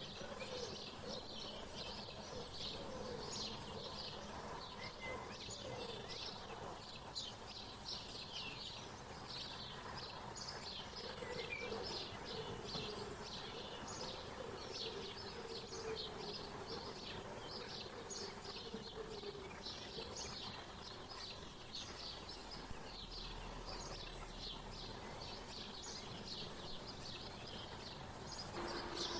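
Many small songbirds chirping and twittering without pause in a dense chorus, over a steady outdoor hiss. In the middle a lower, wavering sound runs for several seconds.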